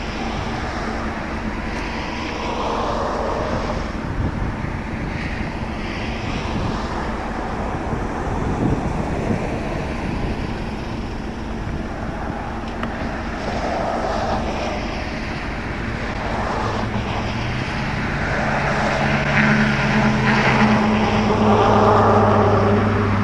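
Engine and rumble noise from a motor vehicle, with a low engine hum that comes in about two-thirds of the way through and drops in pitch near the end.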